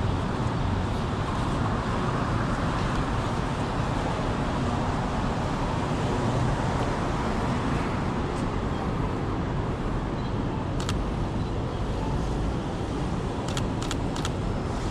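Steady city traffic noise: cars passing on the street. One sharp click about eleven seconds in and a quick run of four or five clicks near the end.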